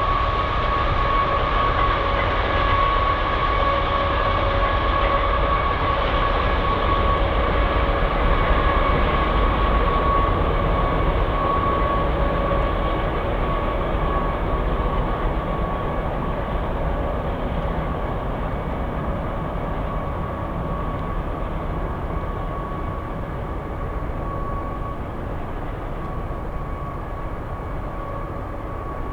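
Freight train cars rolling past on the rails: a dense, steady rumble with a sustained high ringing tone, gradually fading and growing duller as the train draws away.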